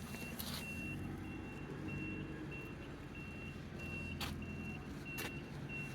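A vehicle's reversing alarm beeping steadily at an even pace over the low hum of an idling engine, with two short clicks near the end.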